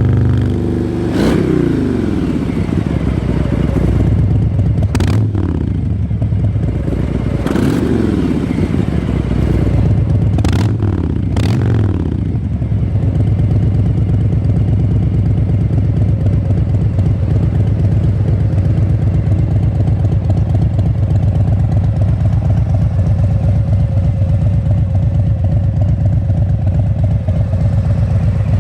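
Harley-Davidson Fat Boy V-twin running through a Jekill & Hyde exhaust. It is blipped about five times in the first twelve seconds, each rev falling back with a sharp crack, then settles into a steady idle.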